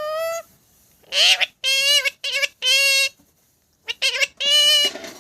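Pet parrot talking: a string of short, high, clear-pitched speech-like utterances in separate bursts with brief pauses between them, ending in a short hiss.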